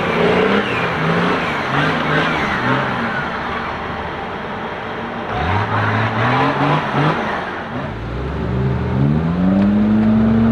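Off-road 4x4 engine revving in repeated bursts as the vehicle is driven through deep mud, its pitch climbing and dropping with the throttle. Near the end the engine climbs to a higher pitch and holds there under load.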